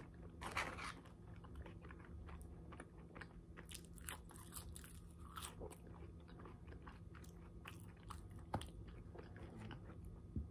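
Faint, close-miked chewing of a fish sandwich: soft wet mouth clicks and small crunches scattered throughout, with one sharper click near the end.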